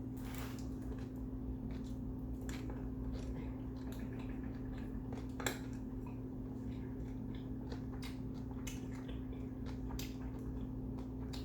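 Close-up eating of kimbap: chewing with scattered small clicks and taps of utensils against the dish, one sharper tap about five and a half seconds in, over a steady low hum.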